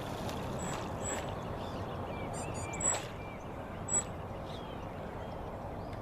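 Steady outdoor background noise with small birds chirping: scattered short high chirps and a few brief calls, the sharpest about three and four seconds in.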